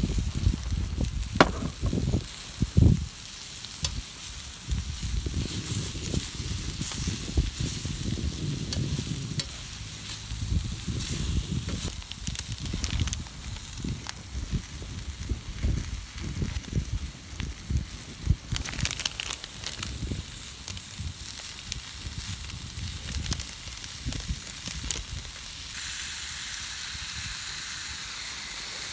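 Food sizzling in a pan over a campfire, with scattered clicks and irregular low knocks and rumbles from the pan and utensils being handled. Near the end the sizzle turns to a steady, even hiss.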